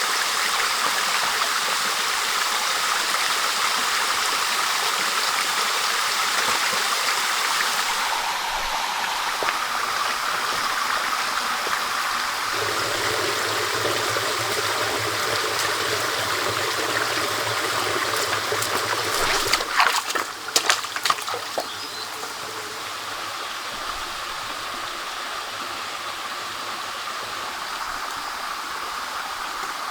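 Steady rushing of a flowing stream, with a short run of sharp knocks or splashes about twenty seconds in, after which the water is a little quieter.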